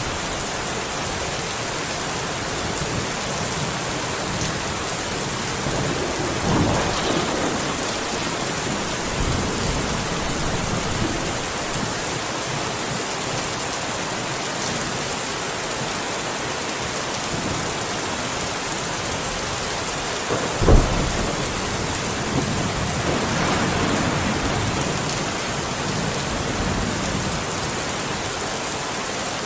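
Steady heavy rain falling, with thunder: a rumble about seven seconds in, a sharp crack about twenty-one seconds in, and a rolling rumble soon after.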